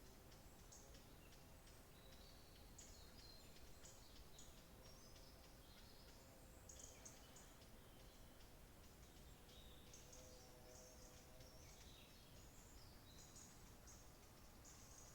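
Faint songbird chorus: several birds chirping and trilling high, over a low background hiss.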